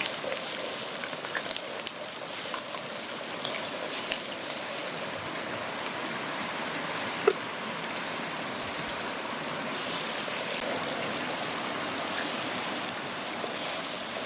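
Steady rushing of a stream and small waterfall, with a few faint clicks and one sharp click about seven seconds in.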